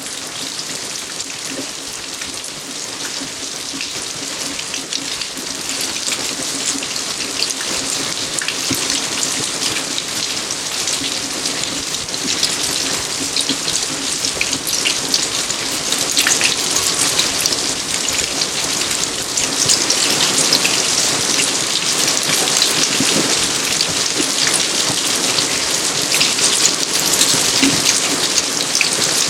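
Steady rain falling on garden surfaces, a dense patter of drops that grows gradually heavier.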